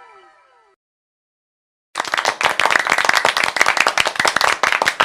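The last falling tones of a short intro jingle fade out, followed by a second of silence. About two seconds in, a loud, dense patter of rapid sharp claps or clicks starts and keeps going.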